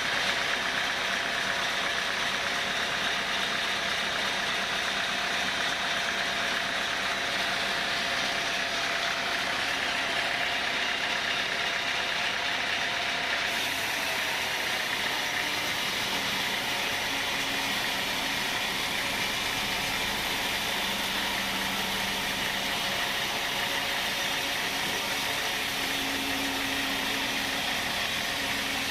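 Sawmill saw machinery running steadily, a dense continuous mechanical noise, with an abrupt change in its sound about halfway through.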